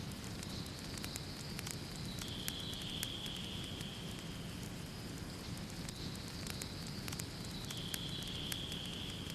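Wood fire burning in a fireplace, crackling with frequent sharp pops over a soft steady rush. A high hiss runs behind it and steps between two pitches every few seconds.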